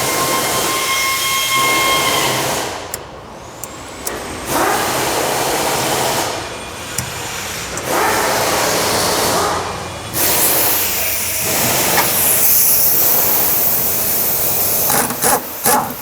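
Pneumatic air tool, such as an air ratchet or impact wrench, running in several spells of a few seconds with short pauses, loosening the nut of a worn-out sway bar link. A few sharp clicks come near the end.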